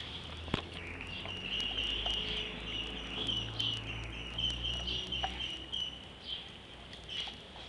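A dog working at an ice cube in its mouth: a run of sharp clicks as the ice knocks against its teeth, over a steady high, thin tone that fades out about six seconds in.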